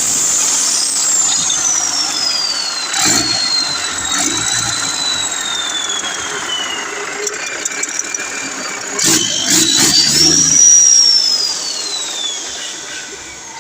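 Cummins 6CTA 8.3-litre turbocharged diesel engine running on test, its high turbo whine falling slowly as the revs come down. About nine seconds in there are a few knocks, the whine jumps up as the engine is revved briefly, and then it falls away again, growing quieter near the end.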